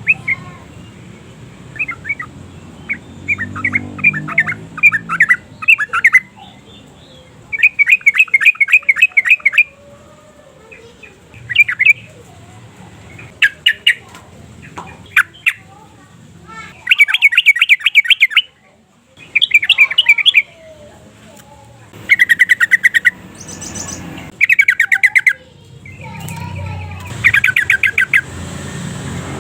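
Yellow-vented bulbul singing in quick, bubbling bursts of rapid notes, each a second or two long, repeated with short pauses between them.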